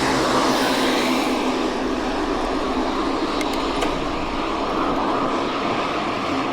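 Mountain bike rolling along a dirt road: a steady rushing noise of the tyres on the gravel surface.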